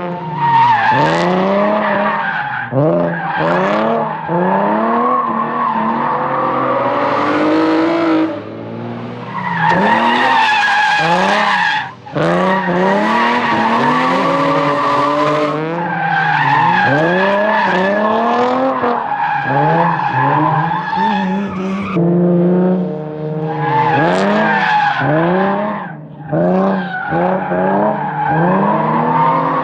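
Nissan VQ V6 drift car engine revving up and down over and over as the rear tyres squeal through long slides, the squeal breaking off briefly a couple of times between corners.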